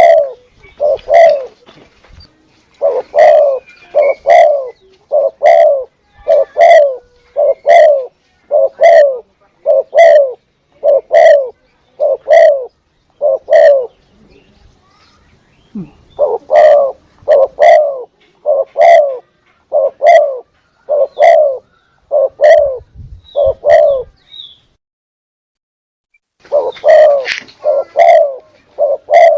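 Spotted dove (tekukur) cooing: a long, loud series of low repeated coos, about three every two seconds, in runs broken twice by pauses of a few seconds.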